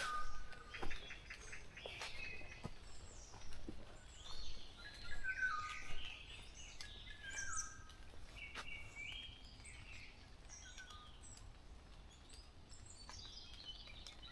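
Several wild birds singing and calling together: short stepped and gliding phrases overlapping, busiest in the first half and thinning out later, with a few faint clicks.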